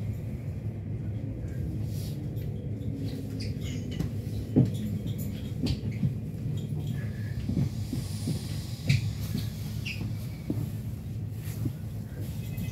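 Commuter train heard from inside the carriage: a steady low running rumble with scattered sharp clicks and knocks and a few brief squeaks, the loudest knock about four and a half seconds in, as the train slows along a station platform.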